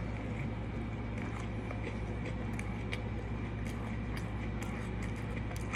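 A person biting into and chewing a soft bun sandwich close to the microphone: irregular wet mouth clicks, more frequent in the second half, over a steady low hum.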